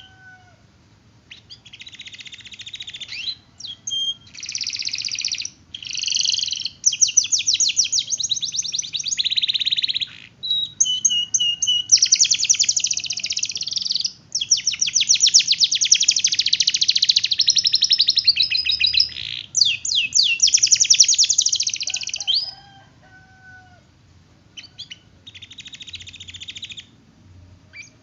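Domestic canary singing long, rapid rolling trills and chirps in phrases of a few seconds each, with a short lull near the end before one more brief phrase.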